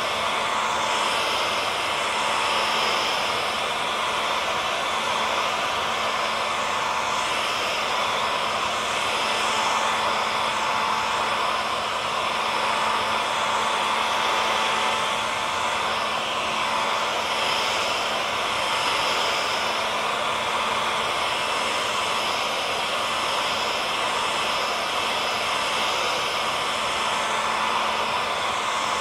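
Hair dryer running continuously: a steady whooshing blower noise with a faint motor hum and whine, swelling gently now and then.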